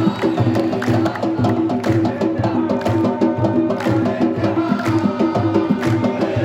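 Supporters' drums and hand percussion beating a steady rhythm.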